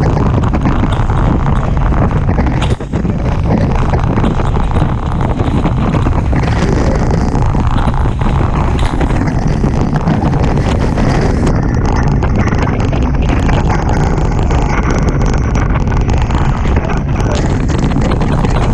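Strong wind buffeting the microphone, mixed with water rushing past the hulls of a Hobie Tiger catamaran sailing fast in roughly 30 knots of wind. The noise is loud and steady, with a brief drop about three seconds in.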